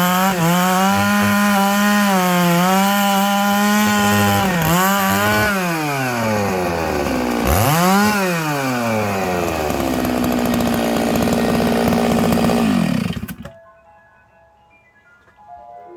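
Stihl MS 660 two-stroke chainsaw ripping larch logs at full throttle, its engine pitch dipping and recovering under the load of the cut. About six seconds in it drops to a low speed, is revved up once, then runs steady before cutting off suddenly near the end, leaving faint music.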